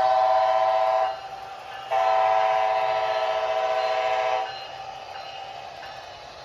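Sound-decoder horn of an HO scale Siemens Charger model locomotive played through its small onboard speaker: a short blast of about a second, then a longer blast of about two and a half seconds, each a chord of several steady tones. A quieter steady running sound from the locomotive continues underneath.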